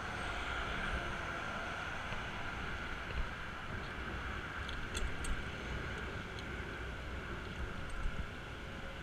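Wind on a helmet camera's microphone and road noise while riding a bicycle among traffic, a steady rushing hum, with a few short sharp clicks about five seconds in.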